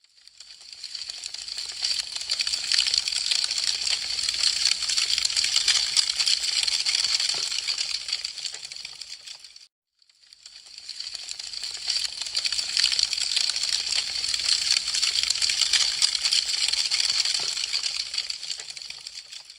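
Wood fire crackling, a dense stream of small sharp pops and snaps. It swells up and fades away twice, with a brief silent gap about ten seconds in.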